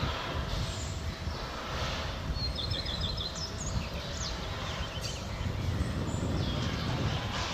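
A steady low rumble of ambient noise with a small bird chirping in quick high-pitched series a few times, a couple of seconds in.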